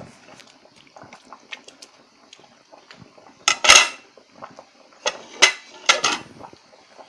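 Metal cookware and utensils clanking and scraping: light clicks, then a loud clatter a little past halfway and three more sharp clanks close behind it.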